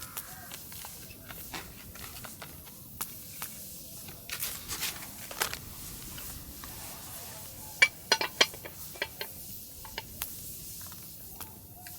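Camp cookware being handled: scattered light clicks and knocks, with a quick run of ringing metal clinks about eight seconds in.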